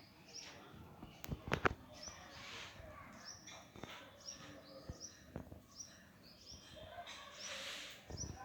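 Pet lovebirds chirping, a steady run of short high calls about two a second. A few sharp knocks come about a second and a half in and are the loudest sounds.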